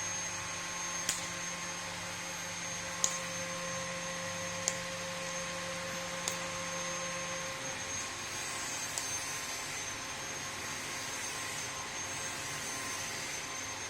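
Steady mechanical whir with a hum whose low part drops away about halfway through. A few sharp, short high clicks come every one to two seconds.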